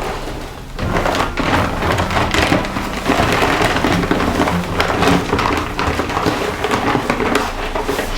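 Dry sand-concrete mix being poured slowly, a steady gritty rushing with many small crackles, with a brief dip in level about half a second in.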